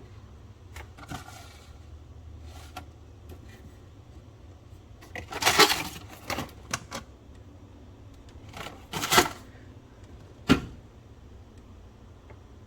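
Food packages and containers being handled: scattered clicks and knocks, with two louder rustling clatters about five and a half and nine seconds in and a sharp knock a little after ten seconds.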